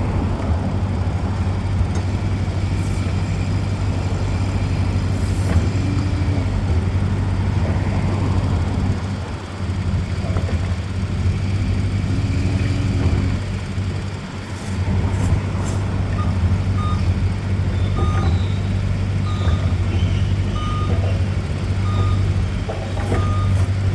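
Engine of a heavy work vehicle running steadily with a low hum, dipping briefly twice. In the second half its reversing alarm beeps about once a second.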